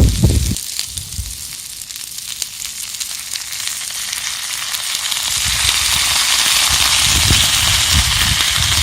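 Food sizzling on a hot pan over a charcoal fire pit, with small crackles. The sizzle grows louder from about halfway through. It follows a brief low rumble at the very start.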